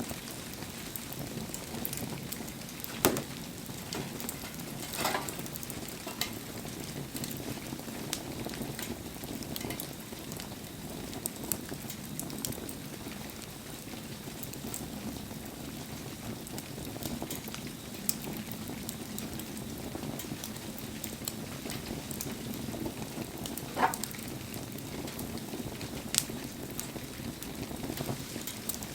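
Wood bonfire burning in the rain: a steady hiss and sizzle, with a few sharp pops from the burning wood, the loudest about three seconds in and near the end.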